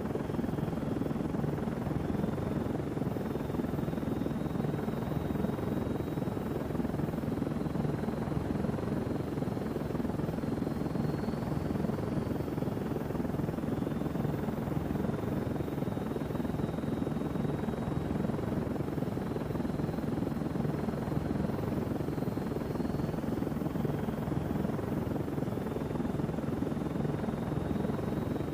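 Helicopter in flight: steady rotor and engine noise, unbroken throughout.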